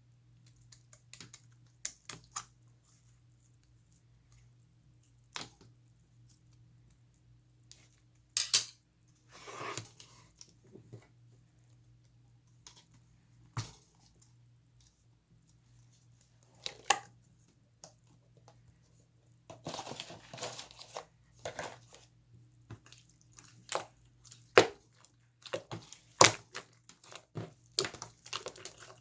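Hands squeezing and poking a large slime, giving scattered sticky pops, clicks and crackles that come thicker in the second half.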